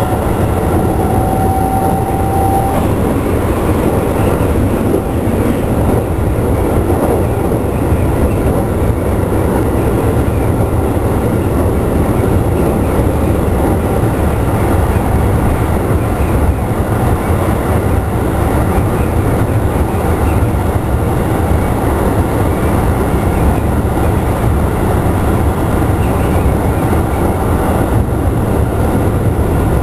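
Onboard running sound of a Keikyu New 1000 series stainless-steel train with Mitsubishi IGBT-VVVF traction: a steady rumble of wheels on rail with some rail-joint clatter as the train runs evenly. A faint steady tone fades out about three seconds in.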